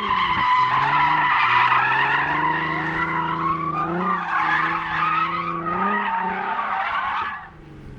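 A car drifting: tyres squealing loudly while the engine is held at steady high revs, with brief rises in pitch around four and six seconds in. The squeal and engine cut off sharply about seven and a half seconds in.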